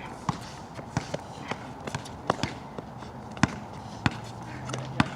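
A ball bouncing and feet striking a wet outdoor court: irregular sharp knocks, a couple each second.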